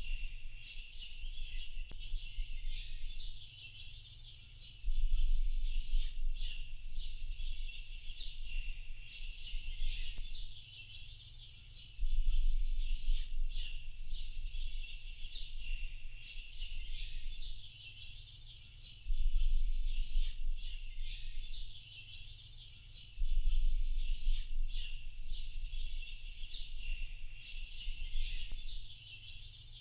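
Dense chorus of many small birds chirping without pause. A deep low rumble cuts in abruptly in stretches of about two seconds, several times, and is louder than the birdsong while it lasts.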